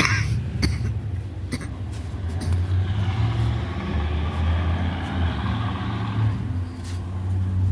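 A car engine idling with a steady low rumble. From about three seconds in, a hiss rides over it for a few seconds.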